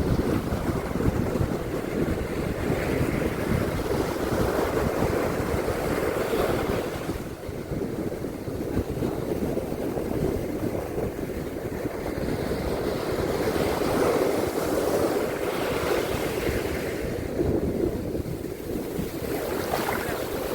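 Ocean surf washing onto a beach, a continuous rush that swells and eases, dipping briefly about a third of the way in. Wind buffets the microphone, adding a low rumble.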